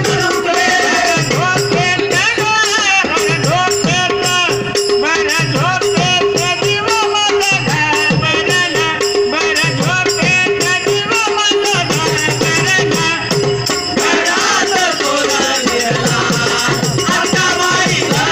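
Marathi devotional bhajan music: group singing over dense, rhythmic percussion with a rattling jingle, and a long held note through the middle.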